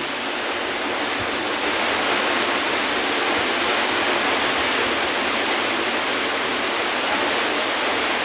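Waterfall: a steady, even rush of falling water with almost no deep low end.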